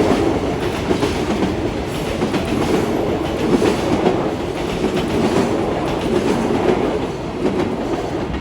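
Train passing close by, a continuous loud rumble with wheels clattering rapidly over rail joints.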